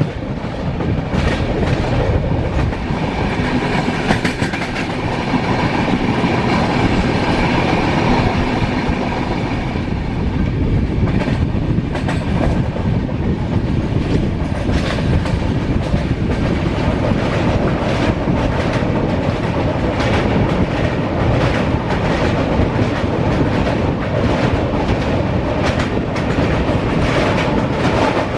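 Passenger train running at speed: a steady rumble with the wheels clicking over rail joints, the clicks coming faster in the second half.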